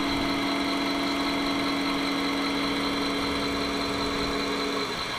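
A radio-controlled scale machine running with a steady mechanical hum that cuts off shortly before the end, over a steady high whine.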